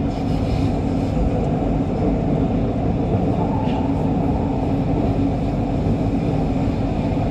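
Steady running noise of an MRT Kajang Line metro train at speed between stations, a constant low rumble of wheels on rail heard from inside the train.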